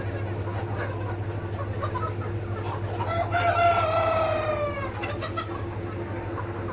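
A rooster crows once, about three seconds in, a call of roughly two seconds that drops in pitch at the end, over a flock of chickens clucking.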